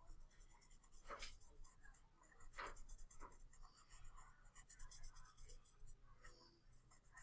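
Faint scratching of a drawing tool on paper: a few short strokes while a cat's face is being drawn.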